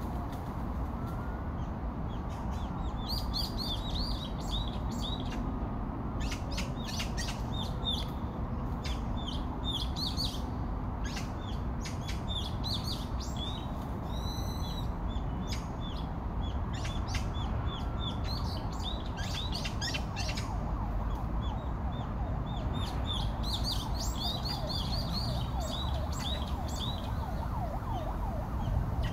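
Birds chirping and twittering in quick short notes over a steady low rushing background noise, with one clearer, longer call about halfway through.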